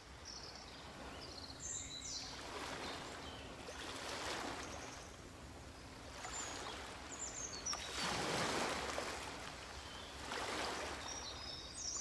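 Small birds chirping in short high phrases over a rushing sound of running water that swells and fades several times.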